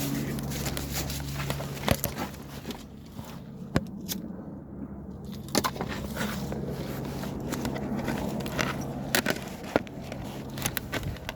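Footsteps with scattered knocks, clicks and scrapes of things being handled, over a steady low hum that stops about ten seconds in.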